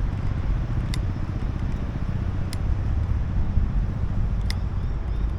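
Steady low rumble of wind on the microphone and road noise while riding a bicycle through city traffic, with three sharp ticks spread through it.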